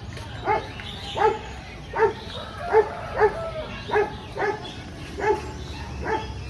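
A dog barking repeatedly, about nine short barks at a fairly even pace.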